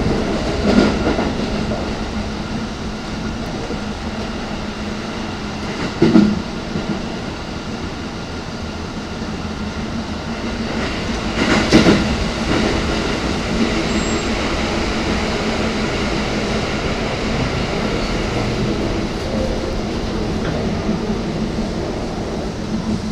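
Running noise inside a Keikyu 600-series electric train car in motion: a steady rumble with a low hum. Three short louder clanks come about a second in, about six seconds in and, the loudest, about twelve seconds in.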